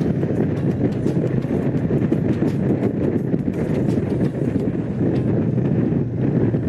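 Honda CX500's liquid-cooled V-twin engine running steadily as the motorcycle rides along, with wind noise on the microphone.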